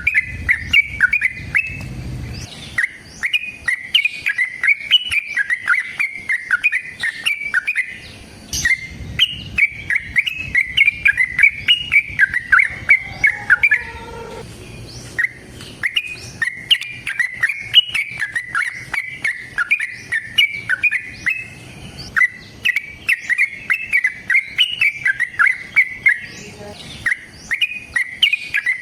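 Yellow-vented bulbul (trucukan) singing long runs of rapid, chattering notes, with short breaks between the runs.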